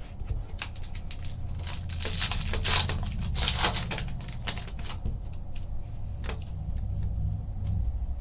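Trading cards and their pack wrappers handled by hand: a string of quick clicks and papery rustles as cards are flicked through, busiest in the middle, over a low steady hum.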